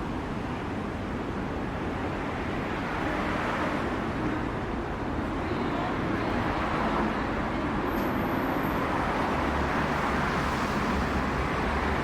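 Steady road traffic noise: a continuous rumble and hiss, growing a little louder about three seconds in.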